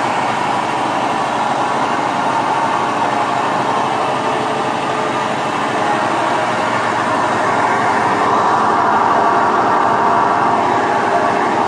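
Washing machine running with a loud, steady mechanical drone that grows slightly louder about eight seconds in.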